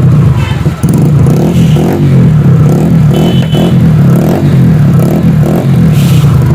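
Motorcycle engine running loudly, its note swelling and fading about twice a second as the throttle is worked.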